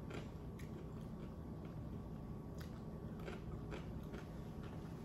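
Close-up chewing of a pickle, with a handful of sharp, wet crunches scattered through.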